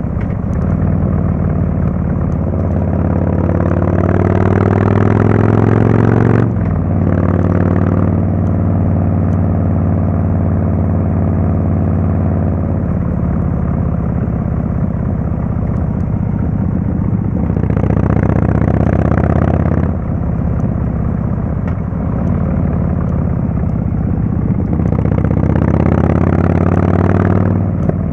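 Harley-Davidson Fatboy S Screamin' Eagle Twin Cam 110 V-twin running through a Kesstech exhaust under way, rising in pitch as it pulls and dropping sharply at a gear change about six seconds in. It then holds a steady note, with two more rises and sudden drops, around eighteen to twenty seconds and near the end.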